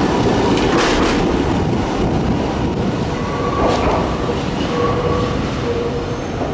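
Electric commuter train running past a platform, its wheels clacking over rail joints. Then another train approaches along the platform with a steady rumble and a thin, faint whine from about halfway.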